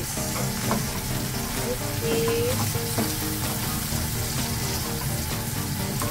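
Shallots and snow peas sizzling steadily in hot oil in a nonstick wok, stirred with a plastic spatula that scrapes and taps the pan a few times.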